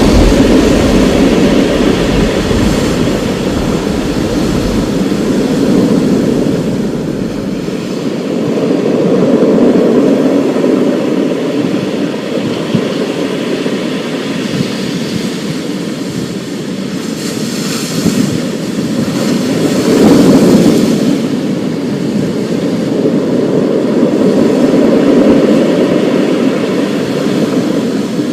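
Thunderstorm: rolling thunder rumbling in long swells that rise and fade several times, deepest in the first few seconds, over a faint steady hiss.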